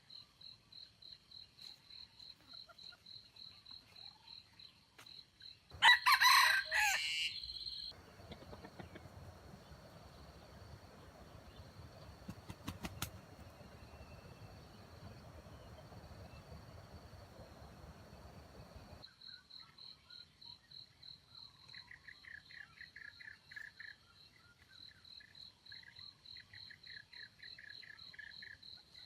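A rooster crows once, loudly, about six seconds in. Under it runs a high, fast-pulsing trill, and later a lower rhythmic pulsed calling.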